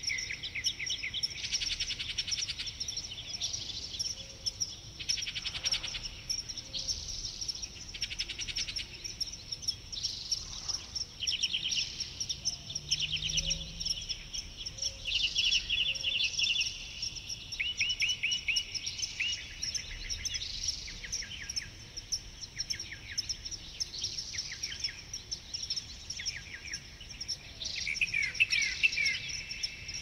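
Several wild birds chirping and singing over one another in a forest dawn-chorus-like ambience, many of the calls rapid trills of quick repeated notes, over a steady high-pitched buzz.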